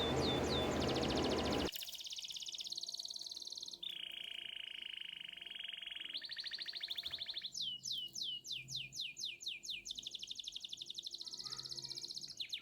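A loud steady hiss for the first second or so, then a songbird-like song of high rapid trills, held whistles and a quick series of downward-sweeping chirps.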